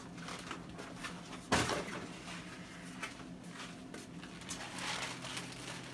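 A single sharp knock about one and a half seconds in, with fainter scattered handling clicks and a steady low hum underneath.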